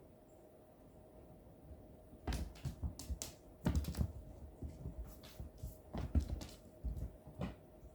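Irregular light taps and knocks, starting about two seconds in, from cats playing on the floor with a toy.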